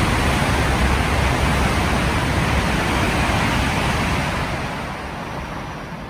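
Coupled E5- and E6-series Shinkansen set passing through the station at speed without stopping: a loud, even rushing noise that fades away over the last couple of seconds as the train recedes.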